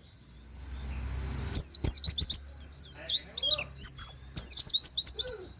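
Pleci (white-eye) singing a fast, busy run of short, high chirps and downward-swept whistles in a rapid-fire "nembak" style. A low rumbling noise swells over the first second and a half, and the song starts up as it cuts off.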